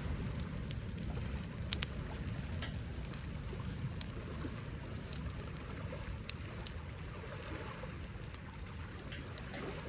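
Campfire crackling with sparse, sharp snaps, over a steady low rumble of wind buffeting the microphone.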